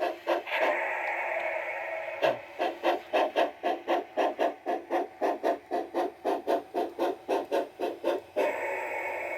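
Steam sounds from the Bachmann G-scale Climax's on-board DCC sound decoder, played through the model's speaker: a steady steam hiss, then even chuffs at about four a second from about two seconds in, settling back to a steady hiss near the end.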